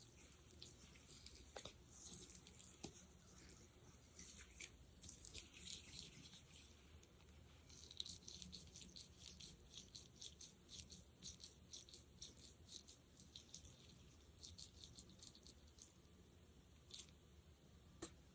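Quiet, close sticky sounds of fingers working a thick jelly, squishing and pulling apart with many fine crackling clicks, denser through the middle.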